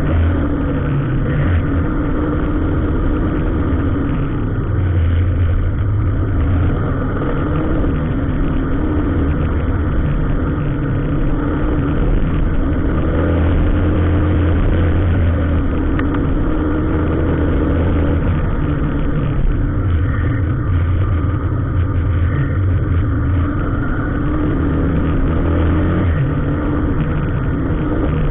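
Motor vehicle engine running steadily with a deep, continuous low hum and small rises and falls in pitch.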